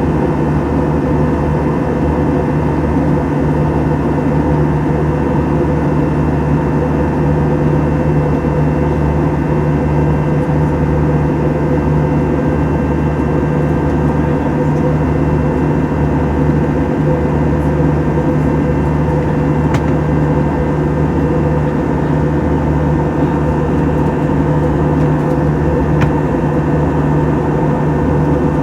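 Steady drone of an Airbus A321's engines and airflow heard from inside the passenger cabin in flight, with a few steady hum tones running through it. Two faint clicks near the end.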